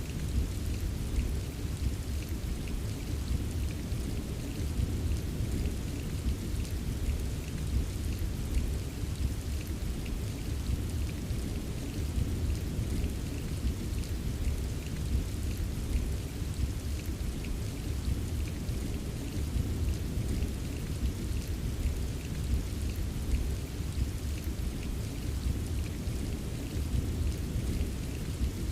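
Steady rain with a continuous low rumble of distant thunder, and many small drops tapping on a surface.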